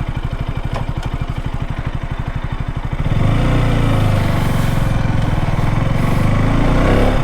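Motorcycle engine idling with an even low pulse, then about three seconds in the throttle opens and it runs louder and smoother as the bike pulls away.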